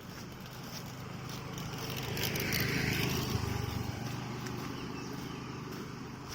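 A motor vehicle passing by: a steady engine hum that grows louder, peaks about halfway through and then fades away.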